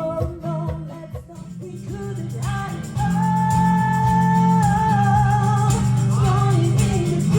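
Live acoustic song: guitar playing under a singer, quieter at first, then a long held sung note over strummed chords from about three seconds in.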